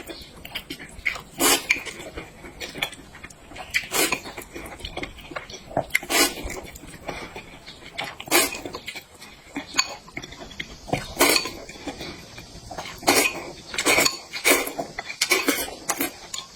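Close-miked eating sounds: a loud bite, chew or slurp every second or two, with dishes and cutlery clinking.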